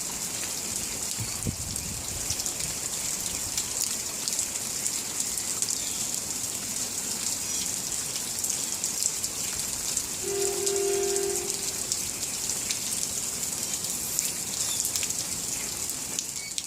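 Steady rain falling, with many fine drop ticks and a constant high hiss. About ten seconds in a short steady tone with overtones sounds for about a second and a half.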